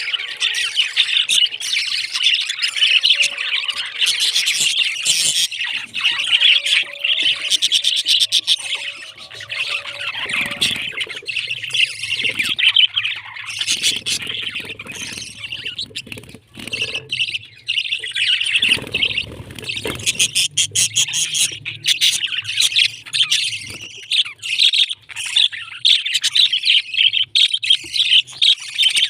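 Pet parrots chirping and chattering continuously, with many quick overlapping notes.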